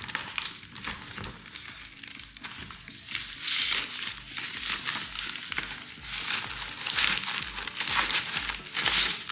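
Packaging wrap crinkling and rustling in irregular bursts as it is handled and pulled off a keyboard being unboxed, over background music with a steady beat.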